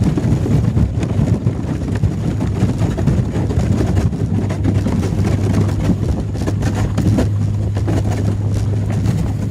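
A fishing boat's engine running steadily while the hull breaks through lake ice, with many sharp cracks and crunches of ice over the engine's hum.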